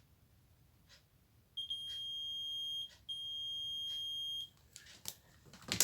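Digital multimeter's continuity buzzer giving a steady high beep twice, each over a second long, as the probes bridge the TV's horizontal output transistor: the beep shows the transistor is shorted. A few light clicks follow near the end.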